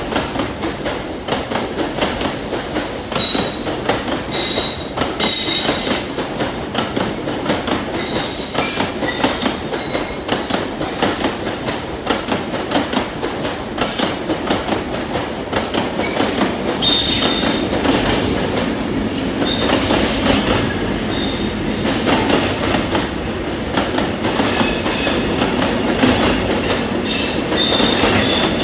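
Container freight train's loaded flat wagons rolling past on curved track: a continuous rumble and clatter of wheels on the rails, with repeated short, high-pitched metallic squeals from the wheels.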